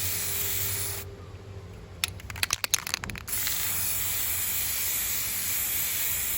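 Steady hiss that cuts off suddenly about a second in and comes back just after three seconds; in the quieter gap, a quick run of sharp clicks and knocks.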